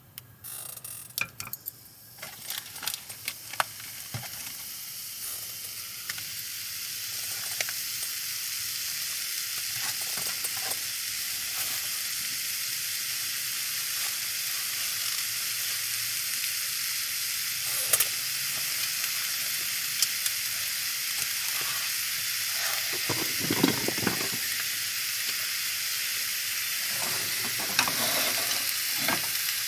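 Meat frying in oil in a hot skillet: it starts with scattered crackles and builds over the first several seconds into a steady sizzle. A few clinks and a scrape of a utensil against the pan come through the sizzle.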